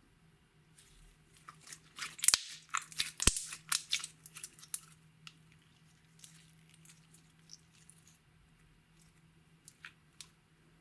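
Slime being squished and worked by hand, with a dense run of sticky clicks and pops from about one and a half to five seconds in, then only a few scattered clicks.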